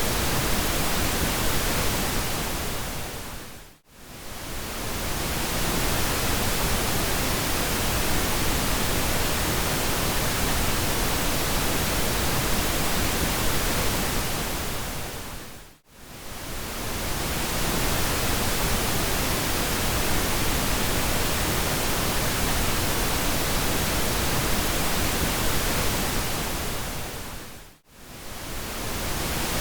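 Steady pink noise, an even hiss across all pitches. It fades out to near silence and back in three times, about twelve seconds apart.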